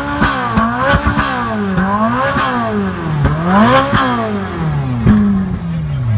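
A sports car's engine being revved in quick repeated blips, about one a second, with sharp cracks from the exhaust between them, then settling back to idle near the end.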